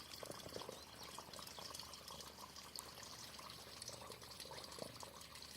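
Faint, steady trickle of water running into a pond, with scattered small drips.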